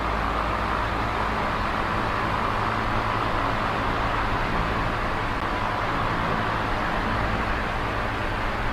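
Small electric oscillating fan running steadily: an even rush of air from the blades over a low motor hum.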